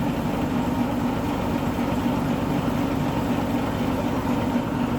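Longtail boat's engine running steadily under way, a loud, unbroken drone.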